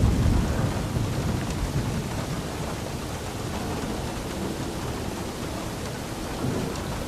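Steady rain falling, with a low rumble of thunder that fades away over the first few seconds.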